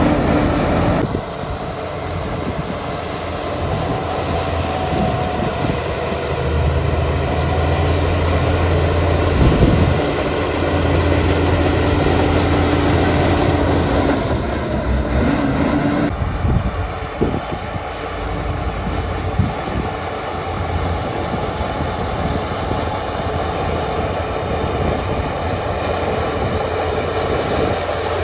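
Heavy diesel earthmoving machinery running steadily with a low engine drone. The sound changes abruptly about a second in and again around the middle.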